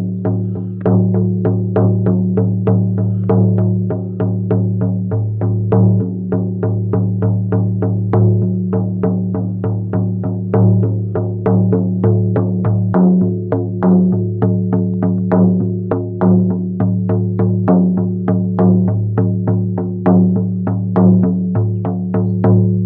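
16-inch shamanic frame drum with a thin horse-skin head on a beechwood frame, beaten steadily with a firm beater at about three strokes a second. Each stroke is sharp and bright, and the skin keeps a deep ring going between strokes.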